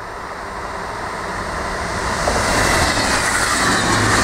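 HŽ series 6111 electric multiple unit approaching and passing close by, its wheels running on the rails. The running noise grows steadily louder and brighter as it nears.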